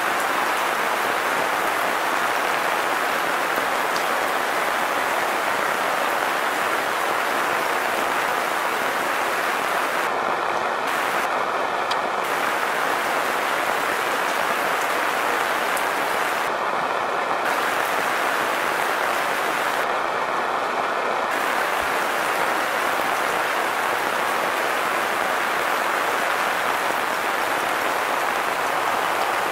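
Steady rain falling, an even dense hiss of drops that holds at the same level throughout.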